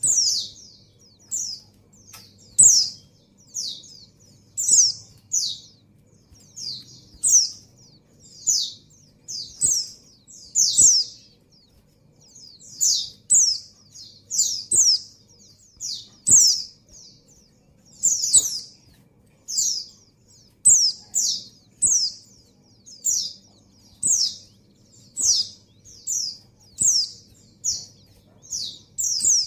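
A female white-eye (pleci) in breeding condition gives repeated short, high chirps, each falling in pitch, about one or two a second. It is a call to attract a male.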